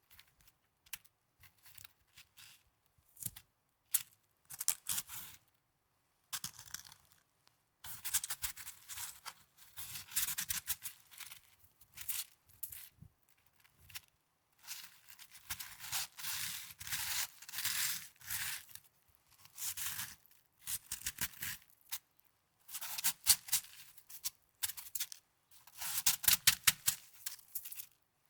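Snow crunching in runs of short crackly bursts, with brief pauses between them.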